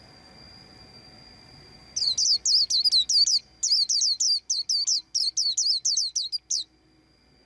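White-eye chirping: a quick run of short, high, downslurred notes, about five a second, that starts about two seconds in, breaks off briefly and stops near the end. A faint steady high tone runs underneath.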